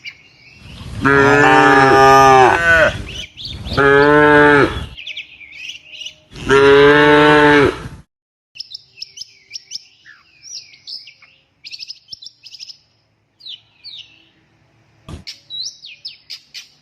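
Cattle mooing: three long, loud calls in the first half, one after another. After that, birds chirp faintly, with a single sharp click near the end.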